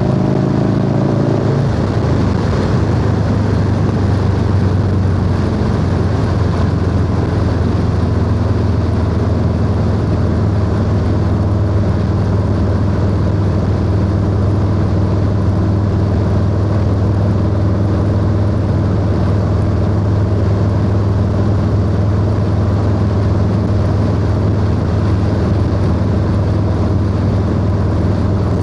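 Harley-Davidson Low Rider S V-twin engine under way on the road: the revs climb, drop with a gear change about a second and a half in, then hold steady at cruising speed, with wind rush over the ride.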